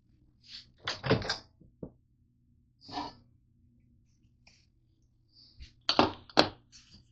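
A few short knocks and clatters from objects being handled: a cluster about a second in, a softer one near three seconds, and another pair about six seconds in, over a faint steady low hum.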